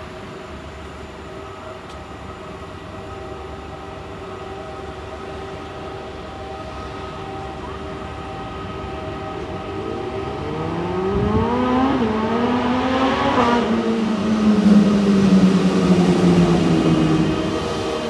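A train passing, its whine rising in pitch as it comes in, peaking about three-quarters of the way through, then falling as it goes by, loudest near the end, over a steady mechanical hum.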